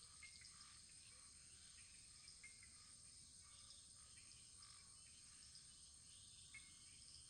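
Faint wood fire burning, with small scattered crackles, a few slightly louder pops, over a steady high hiss.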